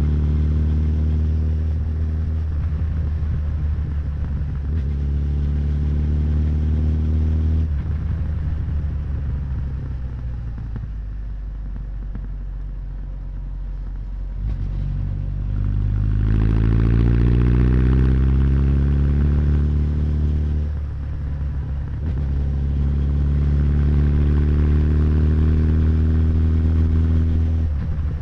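Honda CB1100's air-cooled inline-four engine and exhaust while riding. It pulls through two upshifts in the first eight seconds, then eases off with a falling, quieter note. From about fifteen seconds in it pulls hard again with a rising note, upshifts, and settles to a steady cruise.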